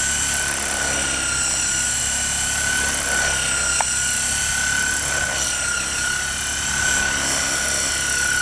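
Large battery-powered RC coaxial helicopter in flight, its motor and rotors giving a steady high whine that wavers slightly in pitch as it is bobbed up and down. A brief click about four seconds in.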